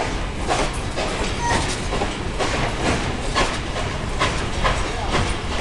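Passenger coaches rolling on the track with a steady clickety-clack, sharp clicks about twice a second over a constant rumble.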